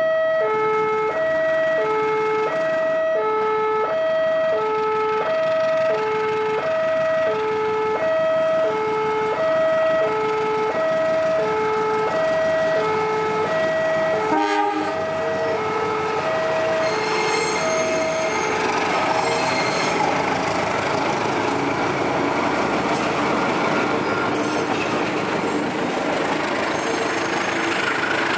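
An electronic two-tone warning alarm alternates between a low and a high note about once a second while a diesel-hauled passenger train pulls in. The alarm fades out in the second half as a passenger train passes close by, its wheels on the rails giving a rising, rushing noise.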